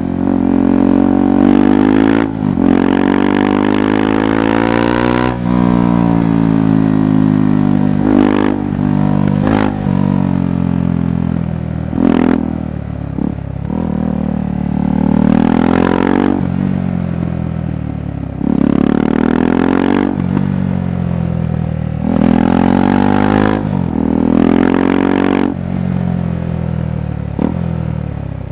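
KTM 390 Adventure's single-cylinder engine and exhaust under way, its pitch climbing and dropping again and again as the throttle is opened and closed, with short breaks between the climbs.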